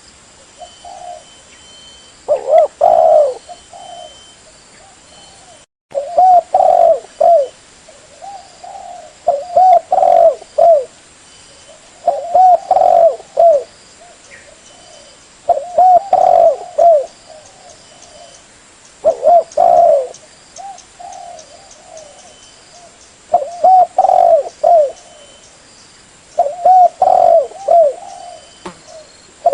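Spotted dove (tekukur) cooing: a phrase of several coos about every three to four seconds, eight phrases in all, with a brief cut just before the second. This is a lure call, the sound used to draw wild spotted doves in.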